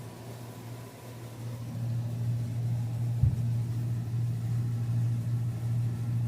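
Whirlpool refrigerator compressor running with a steady low hum after a refrigerant recharge, the system pumping and cooling normally again. The hum is a little weaker in the first second, and there is a brief thump about three seconds in.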